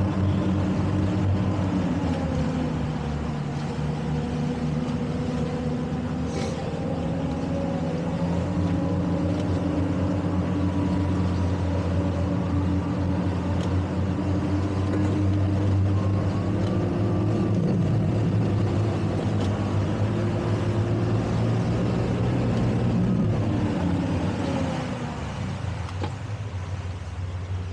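Towboat engine running under varying throttle while maneuvering, its pitch rising and falling several times, then easing off near the end.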